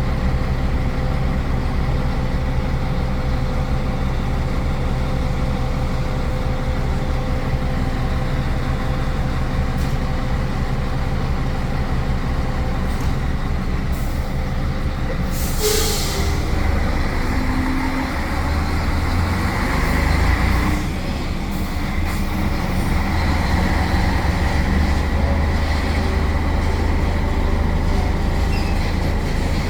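A container truck's diesel engine drones steadily under the rumble of the rig on the road. About halfway through there is a brief, sharp hiss of air from the truck's air system. A little later the low drone swells and then drops.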